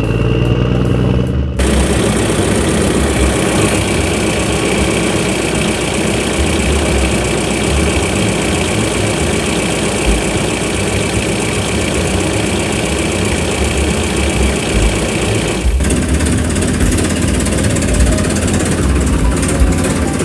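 An engine running steadily, coming in about one and a half seconds in as a few steady musical tones stop, with a short break and a slight change in its sound near the end.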